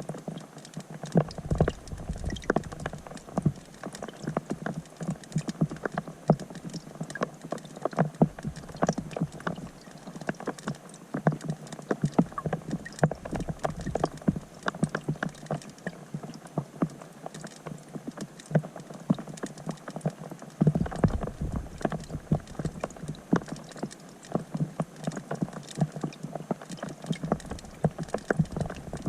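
Rain falling on a pond, heard from underwater: a dense, irregular patter of raindrop taps on the water surface that keeps up steadily.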